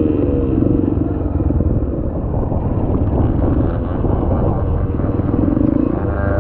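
Dirt bike engine running as the bike is ridden, its pitch dipping near the start and rising again near the end.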